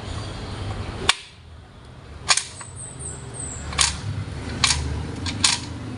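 Sharp metallic clicks and knocks as the steel parts of a Ford 5R55W automatic transmission are handled during teardown: five separate strikes, the first about a second in and the rest a second or so apart.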